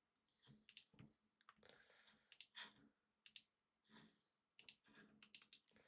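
Faint clicks of a computer mouse and keyboard keys, scattered and sometimes in quick clusters of several clicks.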